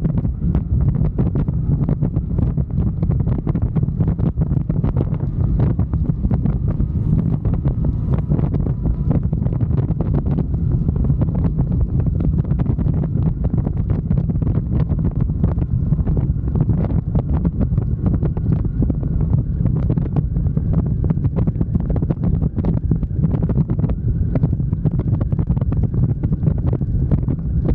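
Loud, steady wind buffeting on the microphone of a moving motorcycle, a dense low rumble that flutters rapidly.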